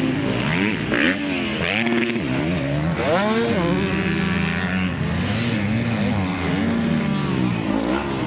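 Several 250 cc motocross bikes racing, their engines revving up and dropping back again and again as the riders shift gears and open the throttle, overlapping one another.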